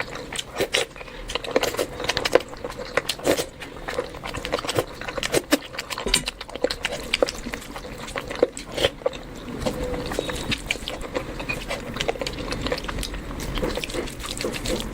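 Close-miked wet chewing and lip-smacking of a person eating curry and rice, a dense run of irregular smacks and clicks.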